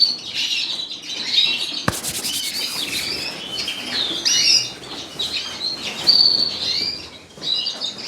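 Many caged canaries chirping and calling over one another in short overlapping notes and whistles, with one sharp click a little under two seconds in.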